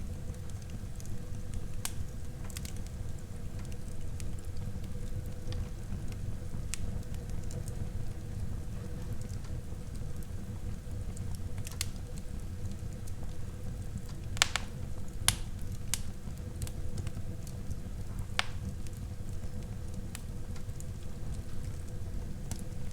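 Wood fire burning in a fireplace: a steady low rumble with scattered crackles and a few sharper pops in the second half.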